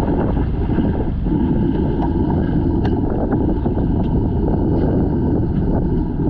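Steady wind noise buffeting the microphone aboard a fishing boat, with a few faint clicks.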